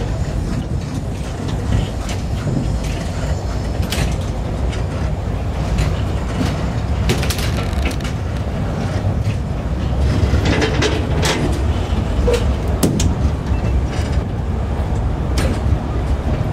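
Steady rumble of a Zillertalbahn narrow-gauge train heard from on board as it runs along the track, with scattered clicks and short rattles from the wheels and carriage.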